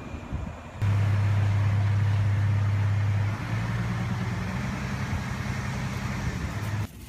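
Steady low hum of a train running, with a hiss above it. It cuts in sharply about a second in, drops a little in level about halfway through, and stops suddenly just before the end.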